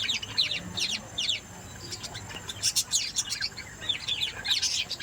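Bird chirping in quick runs of short, high, downward-sliding notes, with a brief lull about two seconds in.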